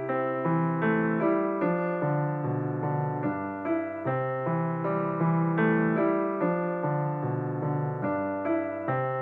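Background music: gentle piano playing a steady run of notes, about three to four a second.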